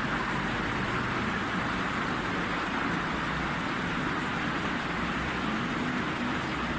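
Steady rainfall, an even hiss of rain that holds at one level.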